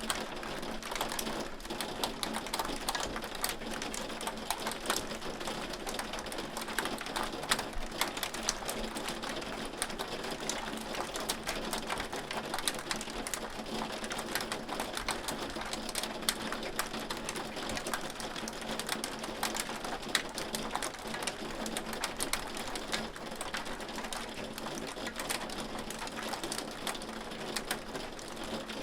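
Hail falling steadily: a dense, irregular patter of hailstones striking, with many sharp individual clicks over a constant hiss.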